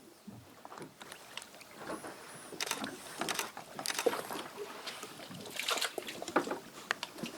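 Water splashing and sloshing against a fishing kayak in short, irregular bursts.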